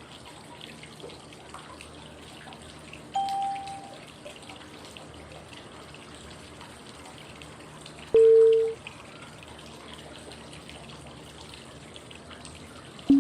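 Steady flowing-water white noise with a short pure cue tone every five seconds: a higher tone about three seconds in, a louder, lower one about eight seconds in, and a low one just as it ends. The tones mark the five-second inhale, hold and exhale phases of 5-5-5 breathing.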